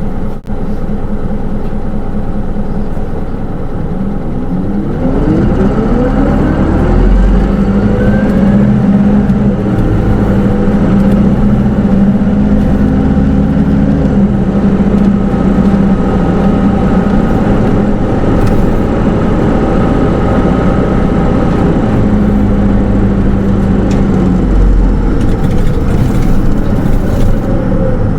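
Cabin sound of a Hino Rainbow II diesel bus with automatic transmission. About four seconds in it pulls away, the engine and transmission rising in pitch through the gears, then it runs steadily at cruising speed and eases off near the end.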